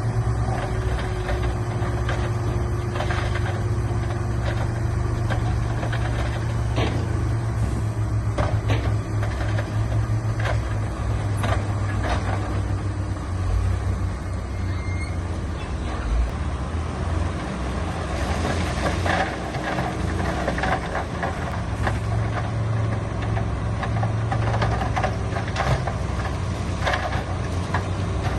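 Heavy diesel earthmoving machinery running steadily, with scattered knocks and clanks of metal and stone.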